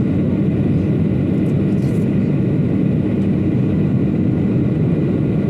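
Steady engine and airflow noise inside an airliner's passenger cabin, a loud even rumble, heard during the descent to land.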